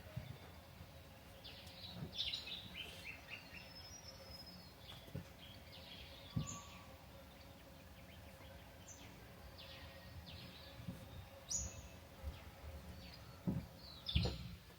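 Birds chirping on and off in short, scattered calls over a faint steady outdoor background. A soft low thump comes about six seconds in, and two more come near the end.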